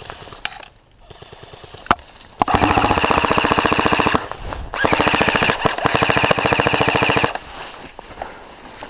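Airsoft rifle fired on full auto in two long rapid bursts of about two seconds each, its motor and gearbox whining under the stream of shots. A single sharp click comes just before the first burst.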